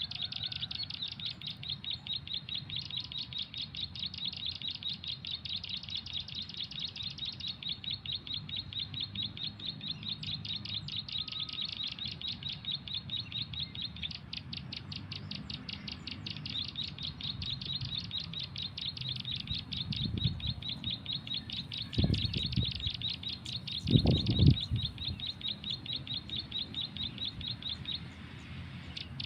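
Bird-call lure recording played from a mobile phone: a fast, evenly repeated string of high-pitched chirps that runs almost without a break, pausing briefly about halfway. A few low thumps come in the second half, the loudest a little before the end.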